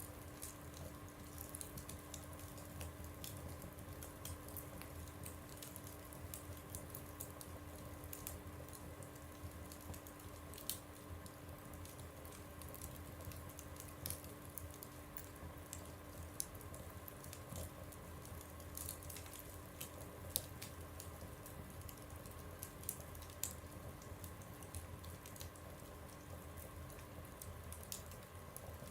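Wood fire crackling in a stove: faint, irregular small pops and snaps over a low steady background.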